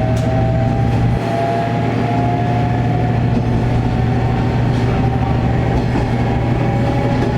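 Diesel railcar's engine running, heard from on board: a steady low drone with a thin whine that rises slowly in pitch as the car gathers speed.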